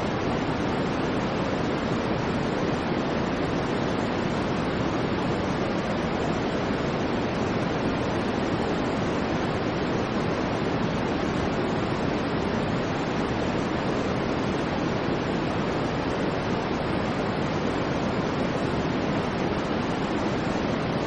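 Steady, unchanging white noise: an even rushing hiss with no swells, rhythm or breaks.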